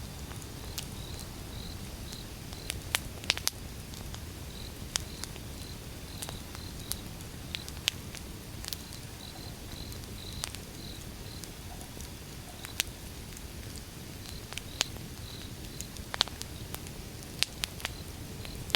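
Wood fire burning: sharp, irregular crackles and pops over a steady low rumble of the flames, with a faint high note pulsing about three times a second.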